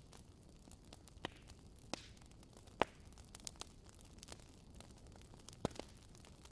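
Wood fire crackling in a fireplace: scattered sharp pops and snaps over a low, steady hiss, with two louder pops, one about halfway through and one near the end.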